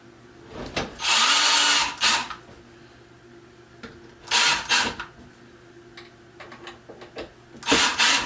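Power drill/driver driving small screws through a drawer slide rail into pilot holes, in several short runs of whirring with pauses between; the longest run lasts about a second.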